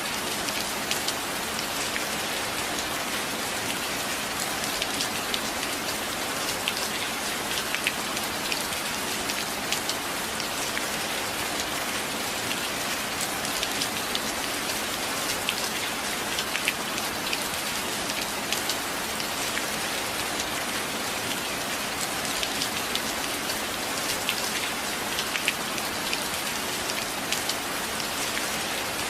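Steady rain: a dense, even hiss with many sharp raindrop taps scattered through it.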